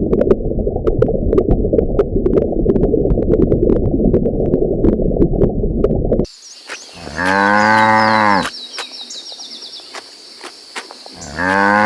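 A dense low rumble with scattered clicks, then, after a sudden cut about six seconds in, a cow mooing twice in long, level calls about four seconds apart, over a steady high-pitched hum.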